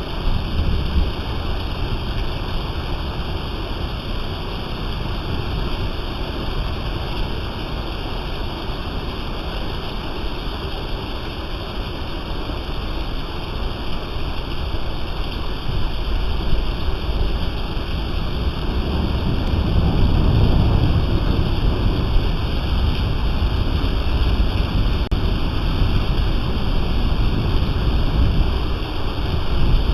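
Steady heavy rain hissing, with low rumbling gusts of wind on the microphone that grow stronger in the second half.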